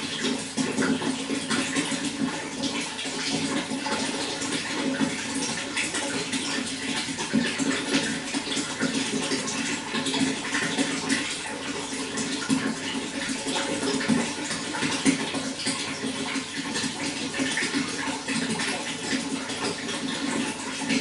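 Running water flowing and splashing steadily, a constant rush dotted with many small splashes.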